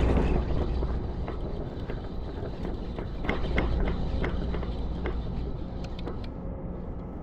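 A few scattered light clicks and knocks as a small spotted bay bass is lifted into a kayak and handled, over a steady low rumble.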